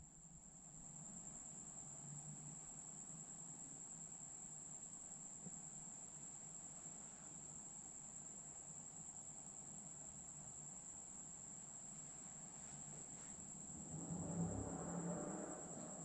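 Quiet room with a steady high-pitched tone running unbroken throughout; faint low murmuring rises briefly near the end.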